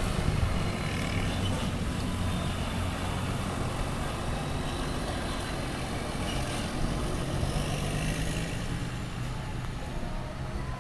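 Large bus's diesel engine running steadily with a low, even hum.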